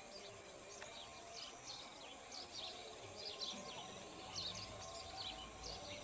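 Small birds chirping: short, high-pitched chirps, several a second, with a low rumble coming in near the end.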